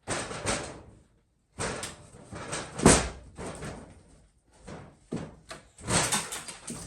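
Wooden knocks, bumps and scraping as wooden window parts are handled and fitted, with one sharp knock about three seconds in standing out as the loudest.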